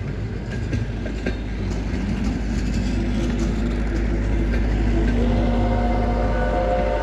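Passenger train passing at close range: a steady low rumble of the coaches with wheel clicks on the rail joints. About two seconds in, a pitched whine rises and then holds, and higher tones join it near the end.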